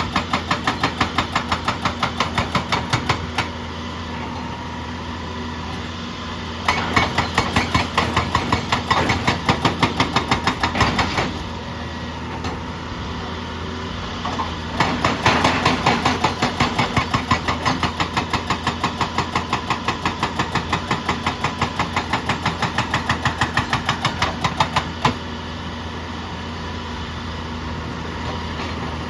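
Excavator-mounted hydraulic rock breaker hammering rock in rapid, evenly spaced blows, several a second, in three runs that start and stop, over the steady running of a diesel engine.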